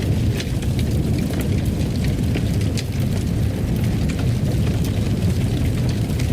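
Fire burning in a fireplace: a steady low rush of flames with frequent small sharp crackles and pops.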